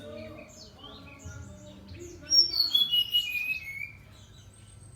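Brown-chested jungle flycatcher singing: about two seconds in, a loud phrase of clear whistled notes stepping down in pitch, lasting about a second and a half, among scattered short chirps.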